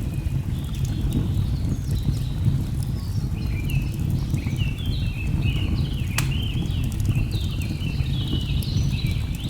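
Layered nature ambience: a steady low rush of falling water under birds chirping in quick, short high notes that grow busier in the second half. Wood-fire crackles tick throughout, with one sharp snap about six seconds in.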